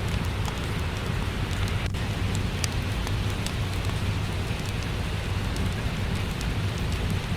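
Steady rain with the sharp, scattered crackles of a wood fire in a fireplace, over a low continuous rumble.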